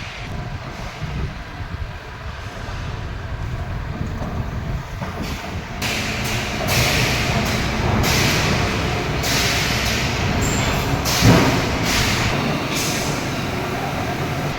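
Mobile crane's diesel engine running steadily under load, with repeated hissing bursts of released air from about six seconds on and one sharp metallic knock a little past eleven seconds.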